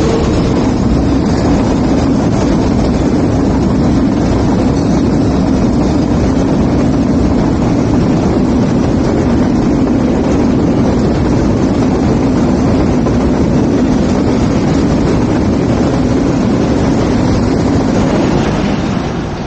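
Loud steady rumble of a train running past close by, with wind noise on the microphone; it eases off about a second before the end.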